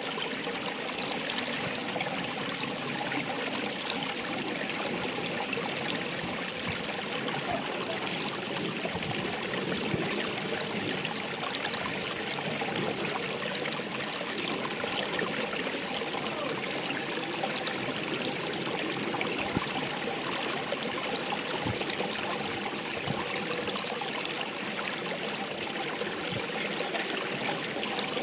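Running water flowing steadily, a constant rushing and trickling.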